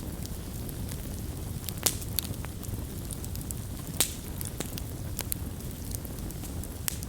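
Campfire burning with a steady low rumble and scattered sharp crackles and pops of wood, the loudest two about two and four seconds in.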